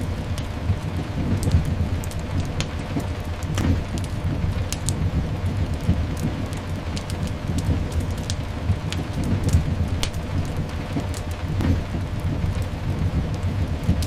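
Layered rain and fireplace ambience: steady rain hiss over a deep continuous rumble, with sharp crackles and pops from a fire scattered about once a second.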